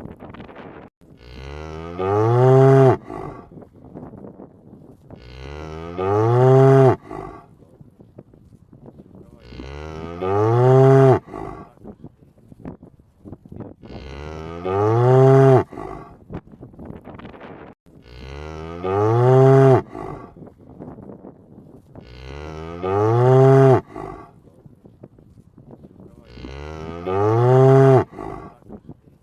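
Cow mooing: seven loud, near-identical moos about every four seconds, each about a second long and rising in pitch.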